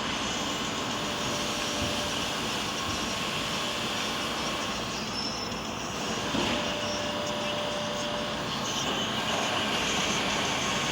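Small handheld butane torch burning with a steady hiss.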